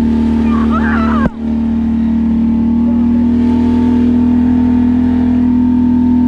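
Can-Am ATV engine running at a steady speed, with a brief break in the sound just over a second in.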